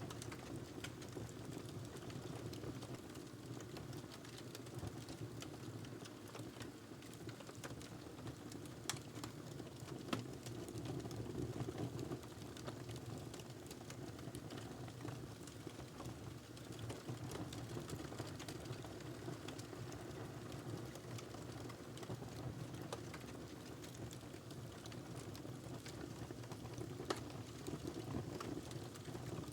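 Wood fire crackling in a fireplace: a steady low rumble of burning logs with scattered sharp pops, the loudest about nine and ten seconds in and again near the end.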